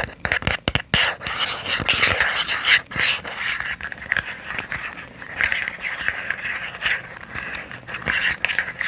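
Fingertip tapping on small boxes, a quick run of sharp clicks in the first second, then stretches of soft scratchy noise.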